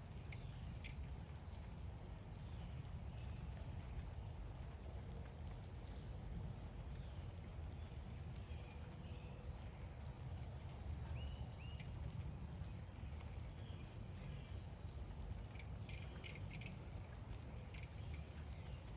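Small backyard birds giving short, high chirps about every two seconds, with a few lower chirps and some faint clicks, over a steady low outdoor rumble.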